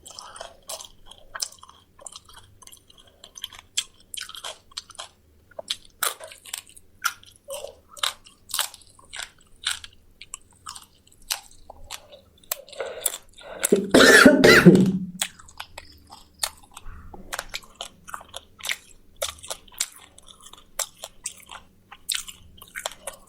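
Close-up chewing and crunching of fried quail, small bones cracking between the teeth in many sharp crunches. Just past halfway there is one loud cough lasting about a second.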